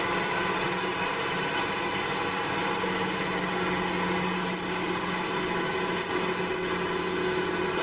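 An engine running steadily at an even speed, a constant hum with several steady tones.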